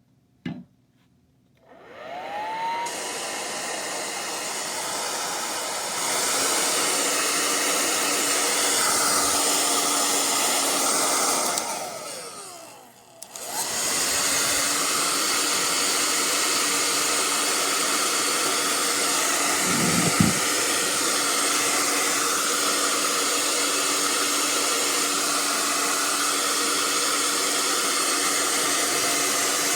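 Hair dryer clicked on, its motor whine rising as it spins up, then blowing steadily. It steps up to a higher setting, winds down as it is switched off, then comes back on and runs steadily on high. There is one brief knock about twenty seconds in.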